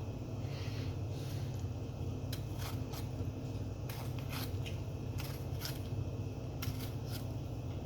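Close-up eating sounds: chewing with many small wet mouth clicks and smacks at an irregular pace, over a steady low hum.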